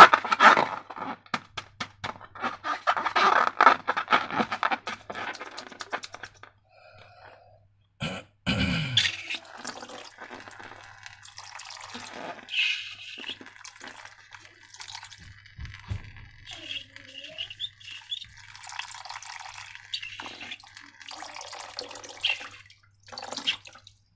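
Sticky, wet slime being squished and worked by hand: a fast run of small clicks and squelches for the first few seconds, then softer dripping and squishing. A brief louder sound with a falling pitch comes about eight seconds in.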